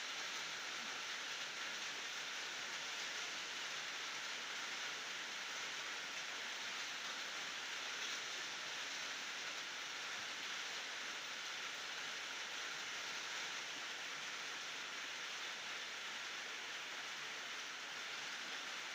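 Steady rain falling, a constant even hiss with no thunder.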